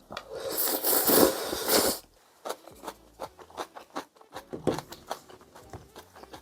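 Handling noise: about two seconds of loud rustling, then a quick run of small clicks and scrapes.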